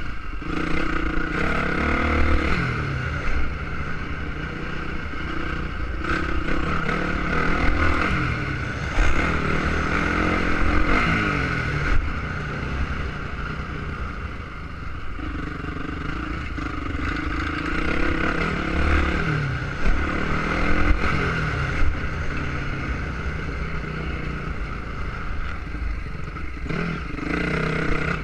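Motocross motorcycle engines revving, the pitch repeatedly climbing and dropping as the riders accelerate and shift through the gears. Under it, a low steady rumble like wind on the microphone.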